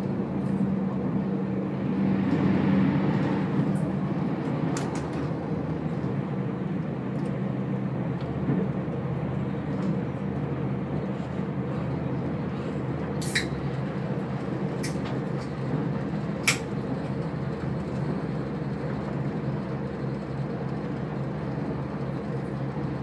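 Inside a diesel passenger train running at speed: a steady drone of engine and wheels with a low hum, swelling a little about two seconds in. A few sharp clicks stand out about halfway through.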